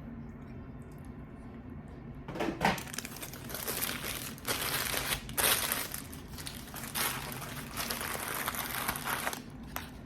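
Paper or plastic food packaging being crumpled and handled in several crinkling surges, starting about two seconds in and stopping shortly before the end.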